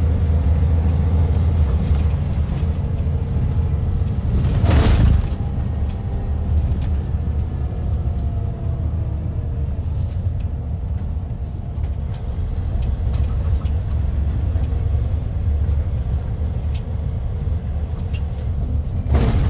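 Hyundai Universe coach's D6CC Powertec 380 six-cylinder diesel running under way with a steady low rumble. A short, loud hiss cuts in about five seconds in and again near the end.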